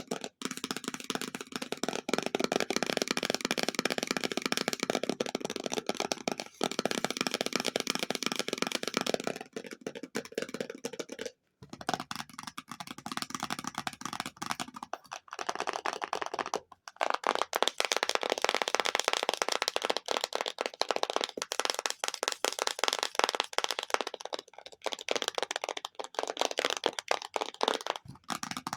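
Extremely fast ASMR tapping on objects, a dense unbroken patter of taps. It breaks off briefly about eleven seconds in, and the tone changes with less low end from about seventeen seconds in.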